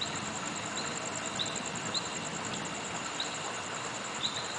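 Night insects chirping, crickets among them: a fast, steady, high trill with separate short chirps every half second or so, over a steady background hiss.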